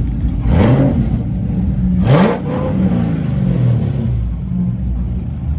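A car engine revved twice in short blips, each climbing quickly in pitch and falling back, the second about a second and a half after the first, then settling to a steady idle rumble.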